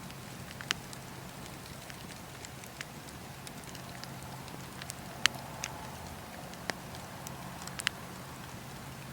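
Wood fire burning in a fireplace: a steady low rumble and hiss with irregular sharp crackles and pops, the loudest about five seconds in and near the end.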